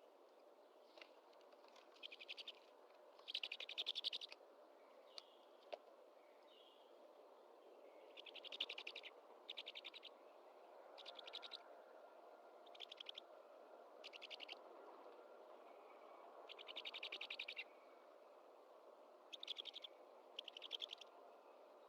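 Great horned owl nestlings' faint, raspy begging calls, about a dozen short rasping bursts spaced every second or two, over a faint steady background hiss.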